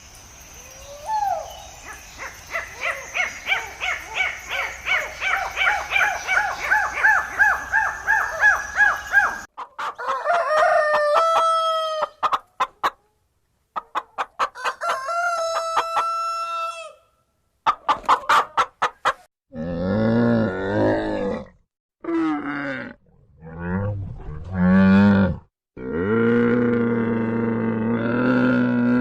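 A run of animal calls one after another: a fowl's fast, repeated calls for about nine seconds, then several shorter pitched calls with gaps between them, then deep, drawn-out calls from a larger animal in the last nine seconds.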